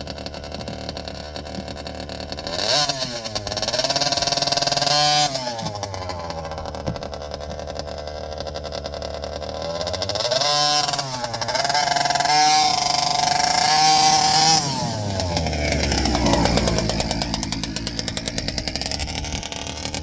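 Two-stroke petrol engine of a large-scale RC truck, a Taylor race engine being run in, idling and revving up twice, each time held for a few seconds before dropping back to idle.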